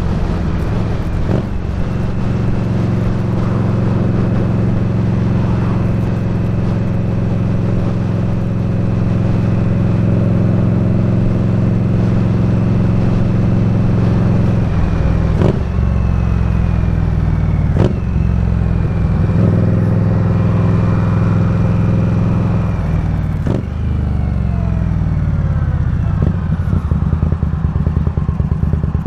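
Indian Scout Bobber's V-twin engine running at a steady cruising speed, with brief breaks in the note twice around the middle, as at gear changes. Near the end the engine note falls as the bike slows.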